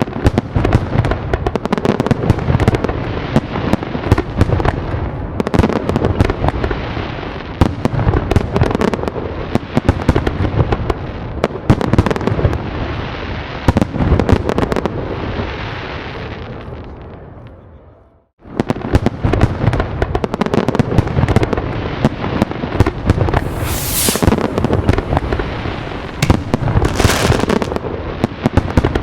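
Fireworks going off in a dense barrage: a continuous run of bangs and crackling. It breaks off abruptly a little past halfway and picks up again straight away, with two sharper, hissing bursts in the last third.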